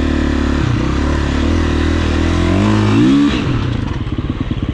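Dirtbike engine running under throttle, rising in pitch in a quick rev about three seconds in, then dropping back to a low, even putter as the throttle closes.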